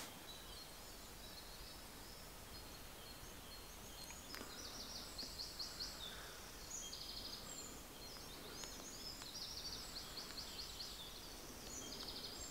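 Faint birdsong from several small songbirds: short, high trills and chirping phrases, one after another, over a soft background hiss.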